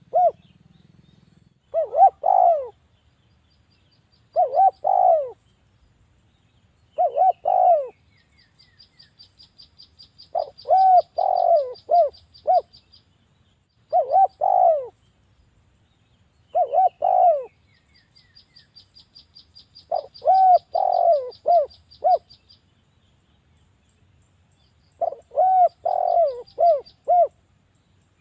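Spotted dove (derkuku) cooing: repeated phrases of several rounded coo notes, one every two to three seconds. Between the coos, a much higher, fast ticking trill runs twice for a few seconds.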